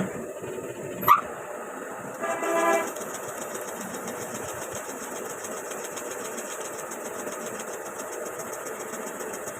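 Small motorcycle engine running steadily, with a sharp rising squeak about a second in and a short horn-like beep a little after two seconds.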